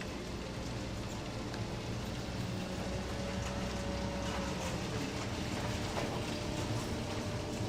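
Scrap-metal sorting plant machinery running steadily: a dense, even rattle of small pieces of shredded metal moving through the line, over a faint steady hum.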